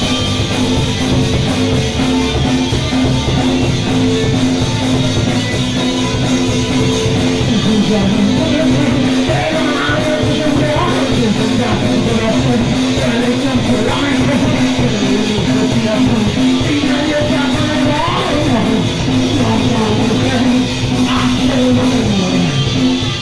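Punk rock band playing live and loud: electric guitars and bass over a steady drum beat, with a voice singing over it.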